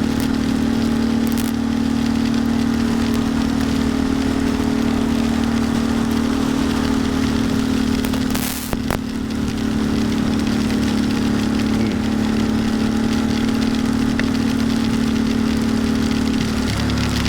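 Ducati Monster's V-twin engine running at a steady pace, with rain crackling on the helmet-mounted microphone. A short click with a brief dip in level comes about halfway through, and the engine note drops just before the end.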